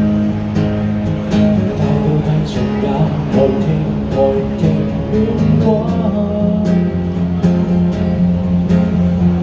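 Acoustic guitar strumming chords in an instrumental passage of a live song, with a melody line moving over the chords through the middle.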